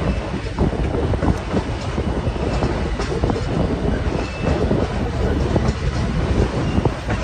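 Heritage railroad passenger coach rolling along the track, heard from inside the car by its open side: a steady low rumble of wheels on rail with frequent irregular rattles and knocks.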